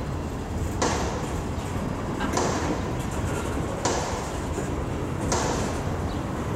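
Freight train of tank cars rolling past on the main line: a steady rumble of wheels on rail, with a brief clatter about every second and a half as the cars go by.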